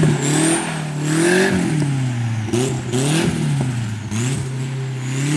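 Turbocharged KA24DE four-cylinder in a Nissan 240SX revving hard as the car drifts, its pitch climbing and dropping several times in quick succession. Very loud, with the sound echoing around.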